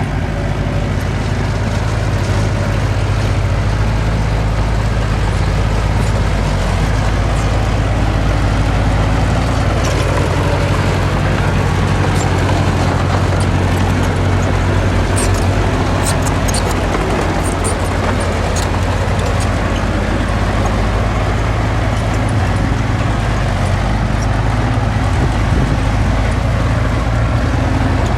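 Heavy diesel earthmoving machinery running steadily at work, with a few short sharp clanks about halfway through.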